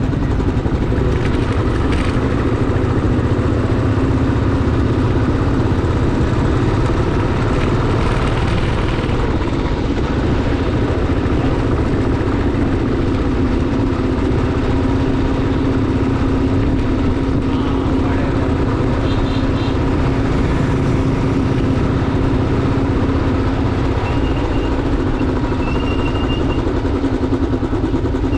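Motorcycle engine running steadily under way over a heavy low rumble, with a few short high beeps in the second half.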